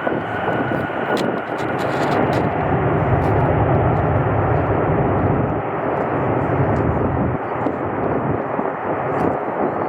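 Jet airliner passing, a steady roar that swells with a deep rumble a few seconds in and then eases, with a high whine fading out near the start.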